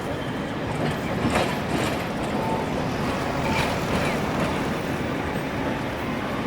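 Street tram (Toyama Chiho Railway city tramcar) running over the rails at street level, a steady rumble with a few sharp clicks, and short high beeps now and then.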